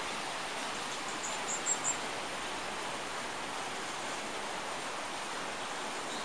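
A short run of thin, high-pitched songbird chirps about a second and a half in, over a steady rushing background noise.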